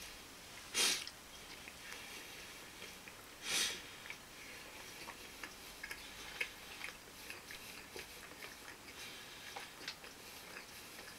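A person chewing a mouthful of fried shumai and rice, with small soft mouth clicks scattered through. Two short, loud breaths through the nose come about one and three and a half seconds in.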